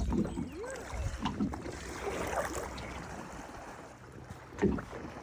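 Kayak on a lake: water swishing and lapping around the hull with paddle movement, and a knock at the start and another near the end.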